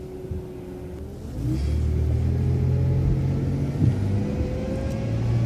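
City transit bus engine takes on load about a second in as the bus accelerates, with a whine that rises slowly in pitch.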